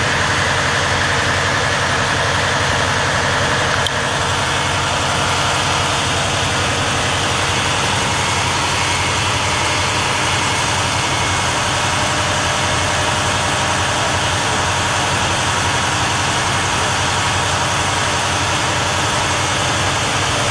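A vehicle engine idling steadily, a continuous low hum with no revving.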